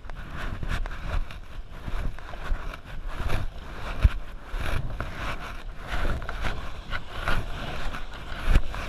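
Wind buffeting the microphone over water splashing and rushing around a canoe, with irregular low knocks.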